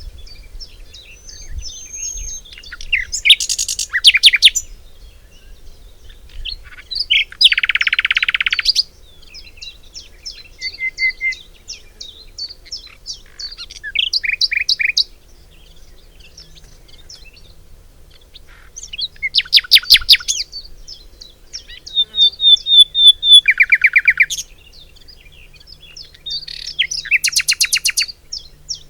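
Songbirds singing: many short chirps, broken every few seconds by fast, rattling trilled phrases of about a second each, the loudest around eight seconds in and near twenty seconds in.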